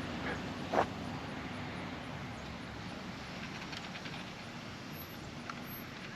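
X-Rider Mars 1/8-scale RC motorcycle driving, a steady running noise, with one sharp knock a little under a second in.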